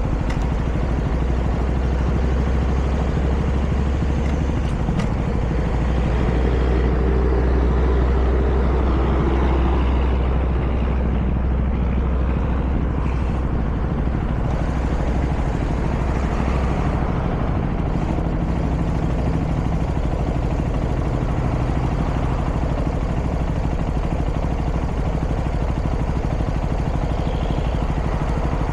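Vehicle driving at cruising speed on an open road: steady engine and road noise with a deep hum, and a slight swell and shift in tone about a quarter of the way in.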